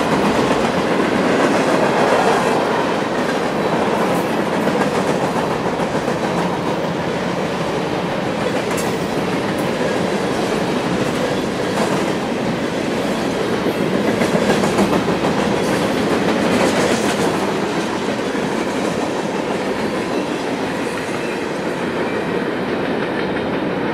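Cars of a CSX freight train rolling past close by: a steady rumble and clatter of steel wheels on the rail, with an occasional sharper clank. It grows a little quieter near the end as the last cars go by.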